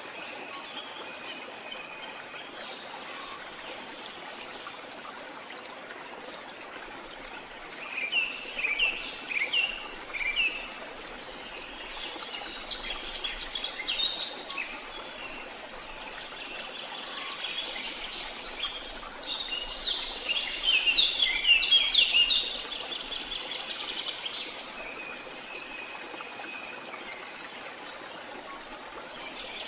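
Small songbirds singing in several bursts of quick chirps and trills, the busiest stretch running from about two-thirds of the way in until near the end, over a steady outdoor hiss.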